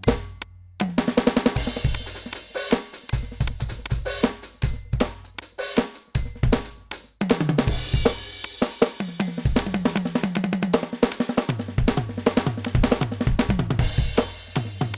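NUX DM-8 electronic drum kit played continuously, dense strikes of kick, snare and cymbals, with a short break just after the start.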